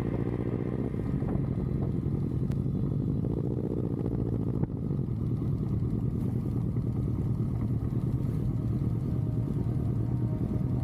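Superbike engine running steadily, with a brief rise and fall in pitch a few seconds in.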